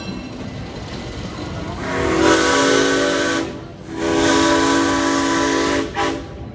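Steam locomotive's shop-built six-chime whistle blowing two long blasts, each about a second and a half to two seconds, a chord of several pitches with steam hiss. Before the first blast the train is heard running.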